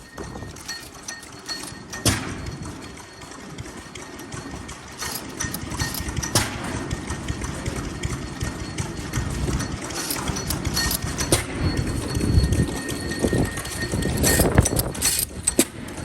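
Vintage stationary farm engines running, their uneven exhaust knocks beating slowly.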